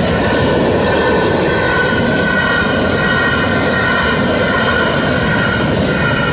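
Long freight train rolling past at close range, with steady wheel-on-rail noise and a high, wavering squeal over it.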